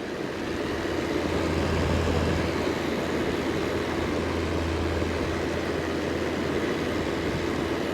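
Fine Elements upright fan heater running on its warm setting: the fan blows with a steady rushing noise under a low hum.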